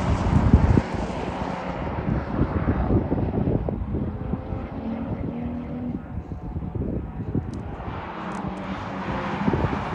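Race-track car engines droning, swelling and fading as cars go by, with wind buffeting the microphone, heaviest in the first second.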